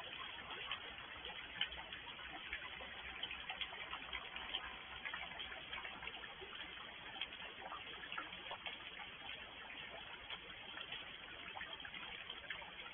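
Rain falling, with many separate drops ticking and tapping at irregular intervals over a steady hiss.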